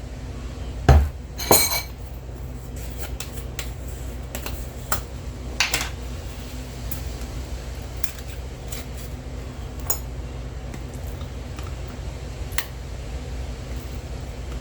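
Kitchen dishes and utensils knocking and clinking while a sauce is put together: a heavy knock about a second in and a ringing clink right after, then scattered light clicks and taps.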